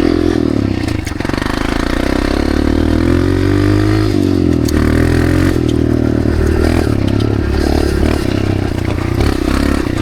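Dirt bike engine and exhaust running loud while being ridden, the pitch rising and falling as the throttle is worked, with a dip about four seconds in.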